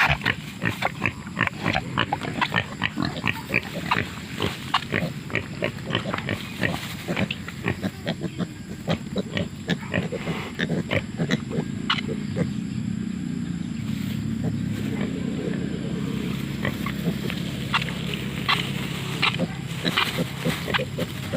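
Wild pigs: a dense string of short clicks and snaps, with a low rumble for a few seconds past the middle.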